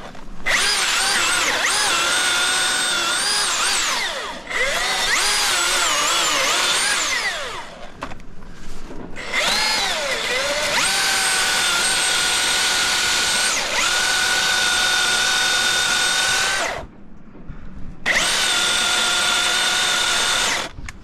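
Milwaukee battery-powered chainsaw cutting through a tree. The electric motor's high whine dips and wavers in pitch as the chain bites, and it pauses briefly three times when the trigger is let off. The cut is slow because the stock safety chain is not dialed in.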